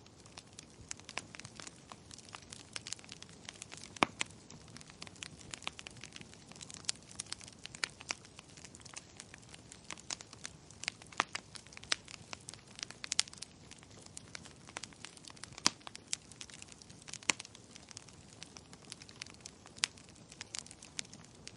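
Wood fire crackling in a fireplace: irregular sharp pops and snaps, several a second, over a soft steady hiss, with a few louder pops standing out.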